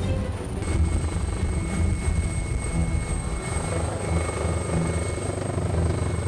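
Search and rescue helicopter hovering, its rotor and engine running steadily, with a thin high whine coming in about half a second in.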